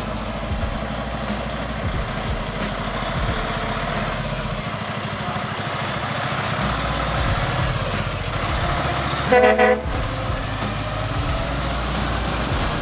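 Heavy truck traffic running with steady engine and road noise; about nine seconds in, a horn gives one short, loud blast of about half a second.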